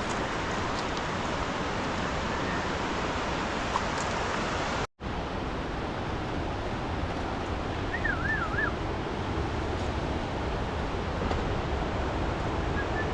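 Steady rushing outdoor noise of wind and flowing water. It cuts out completely for a split second about five seconds in, and a short warbling whistle sounds about eight seconds in.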